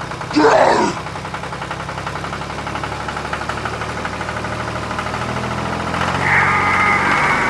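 Small engine idling with a fast, even ticking. A short voice-like call sounds near the start, and a steady high whine comes in about six seconds in.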